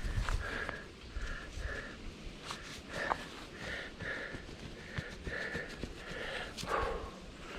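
A mountain biker breathing hard in quick, rhythmic pants while riding, with scattered clicks and knocks and a brief low rumble near the start.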